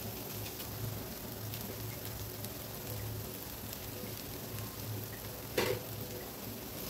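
Egg bread noodles frying in oil in a pan, a steady light sizzle with faint crackles. One sharp knock comes about five and a half seconds in.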